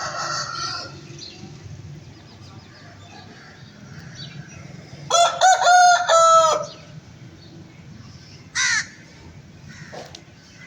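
A rooster crowing once, loud and drawn out for about a second and a half in the middle, falling in pitch at the end. A shorter, higher call follows, with a low steady hum underneath.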